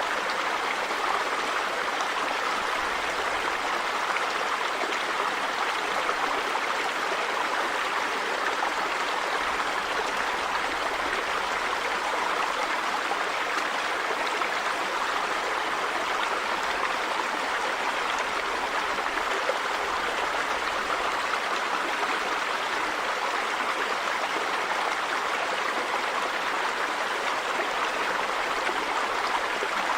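Steady rushing of a river or stream flowing over rocks, an even, unbroken water noise.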